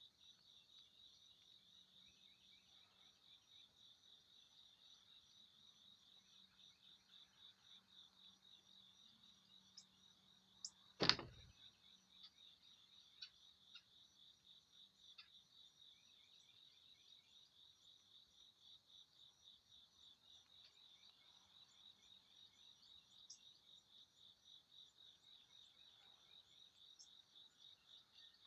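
Faint insect chorus: a steady, rapidly pulsing high trill. A single sharp click or knock about eleven seconds in, the loudest sound, with a few short faint chirps around it.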